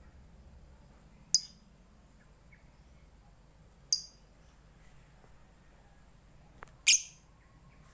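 Lovebird giving three short, shrill chirps a few seconds apart, the third the loudest.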